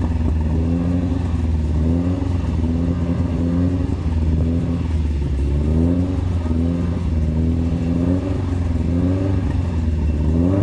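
Rally car engine running with a steady low drone, blipped up and down in repeated short revs.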